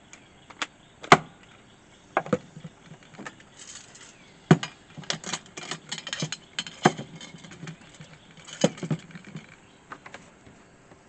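Irregular clicks, clinks and knocks of camp coffee-making gear being handled: a sharp knock about a second in, a few more after, and a busy run of clatter in the middle.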